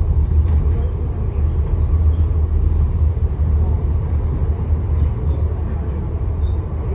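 Passenger train running at speed, heard from inside the carriage: a steady low rumble with a rushing hiss over it.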